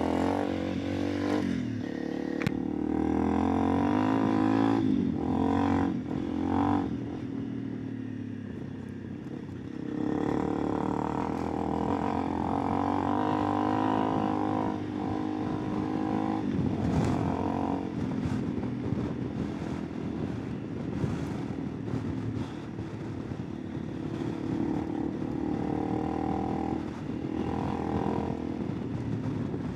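Honda CRF300 Rally's single-cylinder four-stroke engine running on the move, its pitch rising and falling with throttle and gear changes. It eases off about eight seconds in and picks up again about two seconds later.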